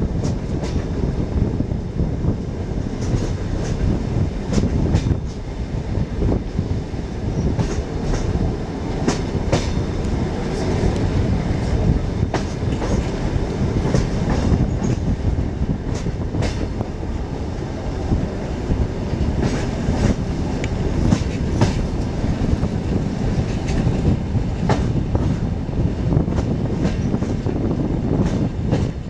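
Trans-Siberian passenger train running along the track, heard from aboard: a steady low rumble with many sharp wheel clicks over the rails scattered throughout.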